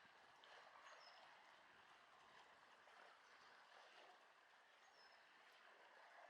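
Very faint, steady outdoor wash with a short, high bird chirp about a second in and another about five seconds in.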